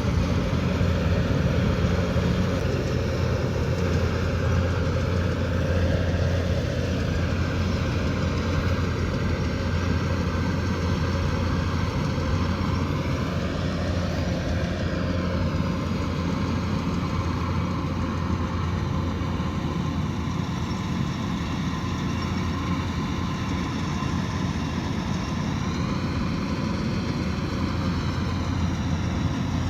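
Kubota DC108X combine harvester running steadily: its diesel engine and threshing machinery make a continuous drone with a strong low hum.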